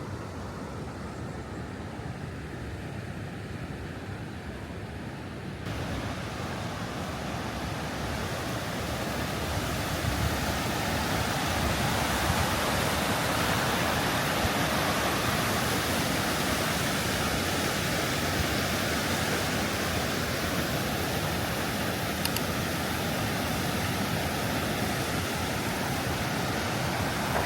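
Stäubifall waterfall crashing down, a steady rush of falling water with no pitch to it. It grows fuller and louder about six seconds in, then keeps rising for several more seconds and holds steady.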